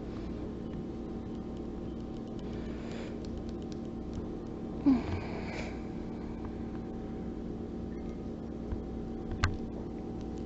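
Steady low electrical or fan-like hum, with a brief rustle of objects being handled about five seconds in and a couple of light clicks near the end.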